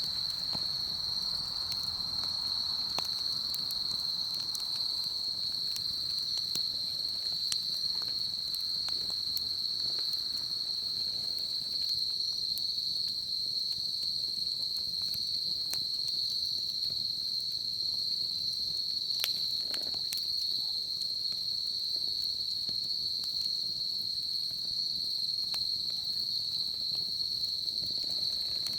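Crickets chirring in one unbroken high trill, over the light crackle and occasional pops of a wood bonfire.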